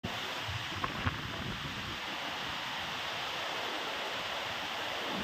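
Heavy rain and wind making a steady rushing hiss, with two short knocks about a second in.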